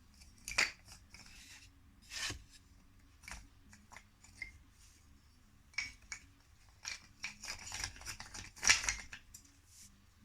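Rustling, scraping and light knocks of unpacked wooden beehive frame parts being handled and set aside, in a string of short irregular sounds with the loudest near the end.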